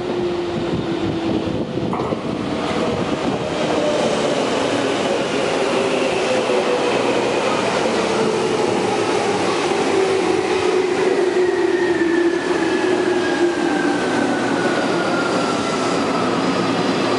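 Tokyu 8500-series electric commuter train pulling into a station: a steady rumble of wheels on the rails under an electric motor whine that falls slowly and steadily in pitch as the train slows.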